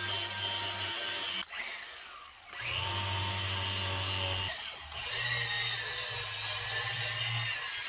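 Power drill spinning a wire wheel brush against a cast iron skillet, grinding off rust and caked-on residue. It runs in three spells, winding down and spinning back up in the short pauses about a second and a half in and again near the middle.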